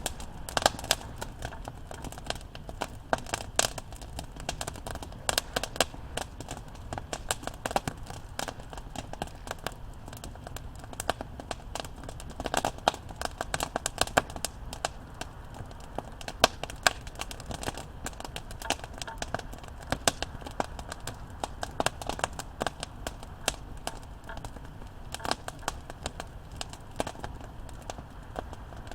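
Campfire crackling: irregular sharp pops and snaps of burning wood, many a second, over a steady low background.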